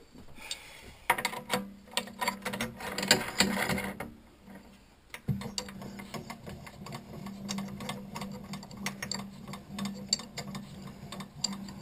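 Metal tooling clinking and rattling as it is handled, then about five seconds in a machine motor starts with a thump and runs steadily, with light ticking over its hum.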